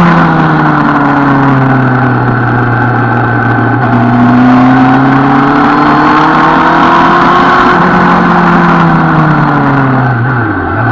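Suzuki Bandit 650 N's inline-four engine running on the road, its note falling at first, rising and easing with the throttle through the middle, then dipping twice quickly near the end.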